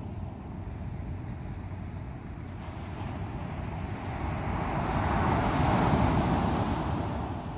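Sea waves breaking on the shore: a steady rumble of surf with one wave building up about halfway through, crashing loudest near the end and then washing away.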